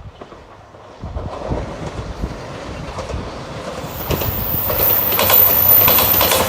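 Train approaching and passing a level crossing, growing louder from about a second in, with a rhythmic clatter of wheels over rail joints. A thin high whine joins around the middle.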